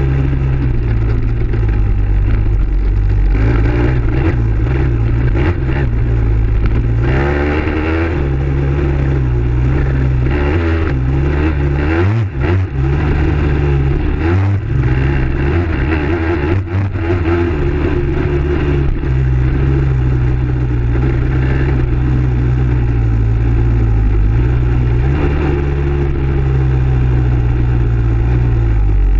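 Dirt bike engine running steadily under throttle, its pitch shifting with the revs, with a few brief drops in the middle.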